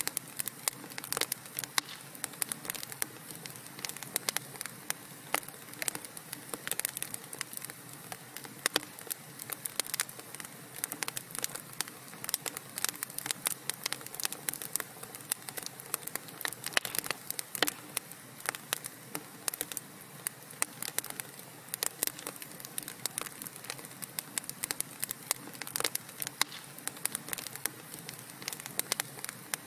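Wood fire crackling in a fireplace: a steady hiss of burning with many small, irregular pops and snaps.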